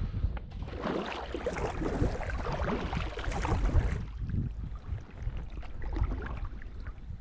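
Water splashing and lapping around a folding sea kayak under way, with a low wind rumble on the microphone. The splashing eases about four seconds in.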